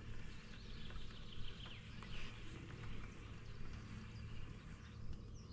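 Faint bird calls, a few short chirps about a second or two in, over a steady low hum.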